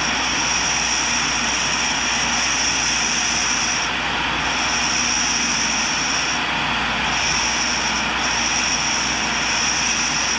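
Grinding wheel on a tool and cutter grinder running while it is being dressed to reshape and sharpen it: a steady grinding hiss with a thin high whine that drops out briefly about three times.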